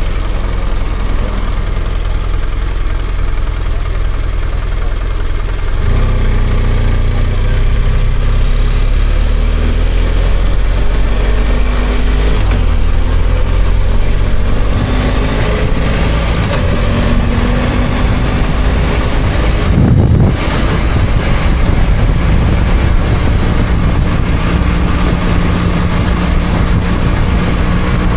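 BMW F800GS parallel-twin engine running under way, its note stepping up and rising as the bike accelerates, with a brief break in the sound about two-thirds of the way through.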